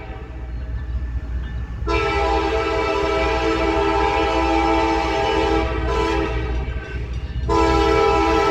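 Diesel freight locomotive's multi-note air horn sounding, silent for the first two seconds, then a long blast that weakens around six seconds and comes back loud near the end, over the steady low rumble of the passing train.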